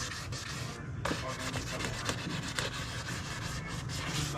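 Sandpaper rubbing back and forth over a plastic car bumper cover in repeated strokes, scuff-sanding it before filler and paint; the strokes begin about a second in.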